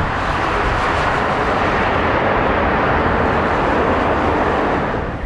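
Boeing 787-9 airliner passing low on approach to land, its jet engines making a loud, steady rushing sound that eases slightly near the end.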